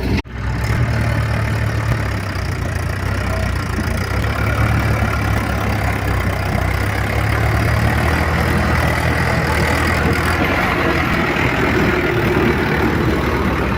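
Diesel tractor engine running steadily, a low even hum, with a brief cut-out just after the start.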